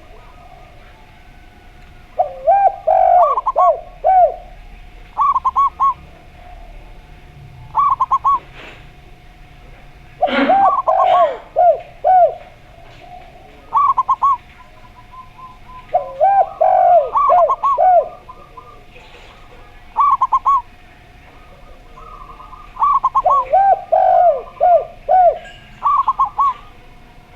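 Zebra dove (perkutut) and derkuku turtle dove cooing in turns. Each phrase is a quick run of short rounded coos, repeated every few seconds, with some phrases lower and longer and others higher and shorter. A faint steady tone runs underneath, and there is a sharp click about ten seconds in.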